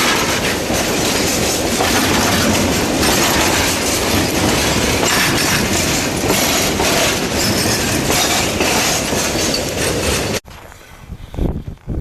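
Narrow-gauge coal train rolling past, with steady heavy rail noise from its wagons and wheels on the track. The sound cuts off abruptly about ten seconds in, leaving a few faint low thumps.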